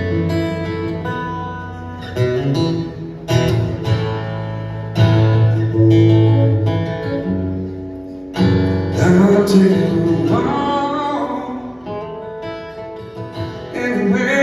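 Acoustic guitar playing the opening of a song, strummed chords ringing out between strokes.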